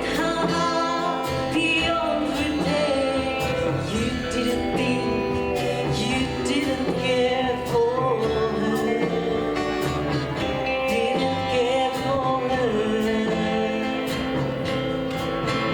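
Live rockabilly band playing a slow dance song: a gliding melody line over guitar chords, bass and a steady drum beat.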